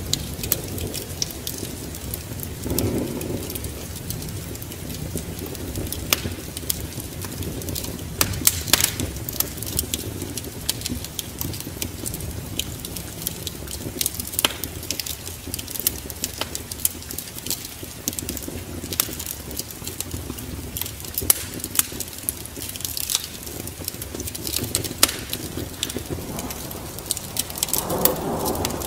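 Wood fire in a fireplace crackling, with frequent sharp pops and snaps over a steady low rumble. A louder low swell comes in about three seconds in and again near the end.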